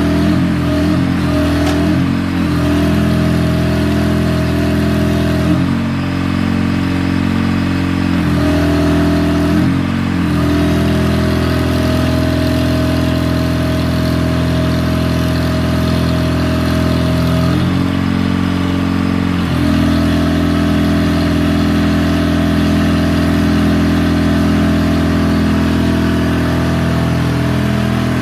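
Truck engine running steadily at idle, driving the hydraulics of an articulating crane; its tone changes abruptly a few times as the load on the engine shifts.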